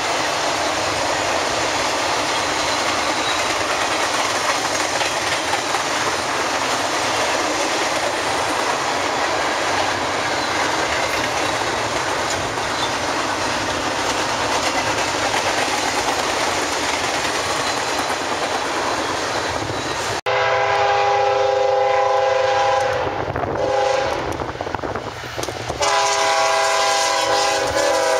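A long freight train of empty well cars and gondolas rolling past steadily. About twenty seconds in, a sudden change to a CSX diesel locomotive's multi-note air horn blowing: a long blast, a short break, then another long blast.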